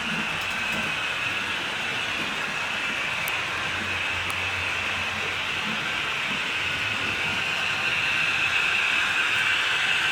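HO scale model train running along the track: a steady whirring rush of the motor and wheels on the rails, growing a little louder about eight seconds in.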